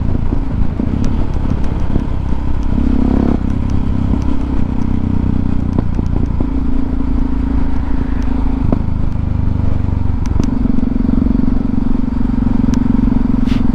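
Motorcycle engine heard from a rider's helmet microphone while riding. The engine note steps to a new pitch several times over wind rush, with faint ticks from the microphone wire tapping against the helmet.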